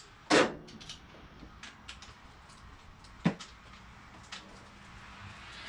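Hand tools knocking and ticking against the metal of a small-block Chevy's valvetrain during valve lash adjustment. There are two sharp clanks, one about a third of a second in and one about three seconds in, with light ticks between them.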